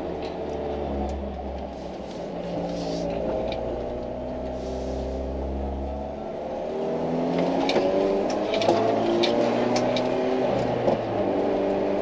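Mini Cooper S R53's supercharged 1.6-litre four-cylinder engine, heard from inside the stripped-out cabin while driving. Its note steps through several pitches, then grows louder and rises as the car speeds up from about seven seconds in, with scattered sharp clicks.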